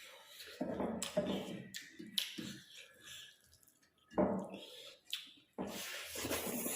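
Close-up eating sounds: chewing with short, sharp mouth clicks and smacks.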